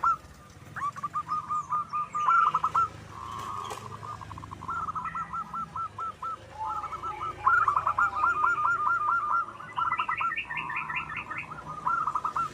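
Zebra dove (perkutut) cooing: phrase after phrase of rapid, staccato coos. About ten seconds in, a higher quick series of notes overlaps it.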